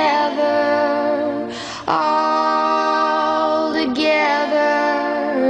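A woman singing long, slowly held notes of a slow, sparse song. A short breath comes about one and a half seconds in, and a new note begins near four seconds.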